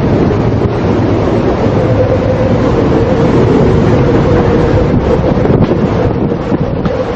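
Storm wind battering the microphone aboard a ship at sea, with a steady tone held underneath.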